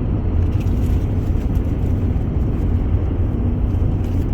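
Diesel pickup truck's engine running steadily, a constant low drone.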